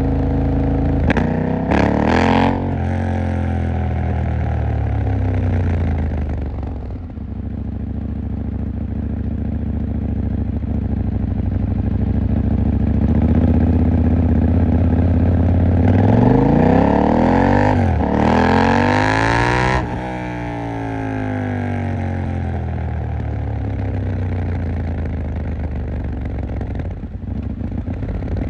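KTM 890 Duke R's parallel-twin engine running under way, its pitch rising and falling with the throttle. Short sharp clicks come about two seconds in. Later the revs climb, break off sharply near two-thirds of the way through, and then fall away as the bike slows.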